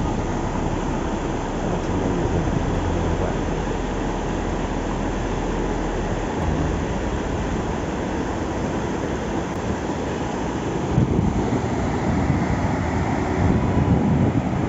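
Steady road noise from a moving vehicle, a dense rushing sound with a deep low rumble that drops away about six seconds in.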